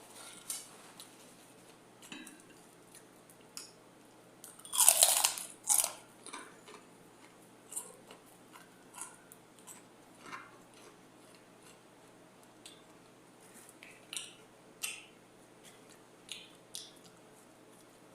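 Close-up crunching and chewing of crisp chicharon (fried pork rinds), with short crackly bites spread out and one longer, louder crunch about five seconds in.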